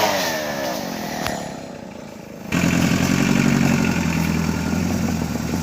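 A Stihl 070 two-stroke chainsaw coming off full throttle, its pitch falling as it winds down over the first second or two. About two and a half seconds in, a lower, steady engine idle starts abruptly, typical of the old car's engine running.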